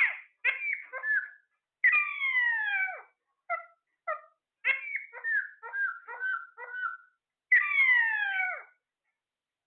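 A parrot calling: a string of short chirps broken by two longer calls that glide downward in pitch, one about two seconds in and one near the end.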